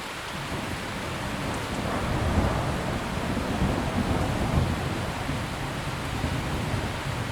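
Steady heavy rain with a low rolling thunder rumble that swells about a second in, is loudest in the middle, and dies away near the end.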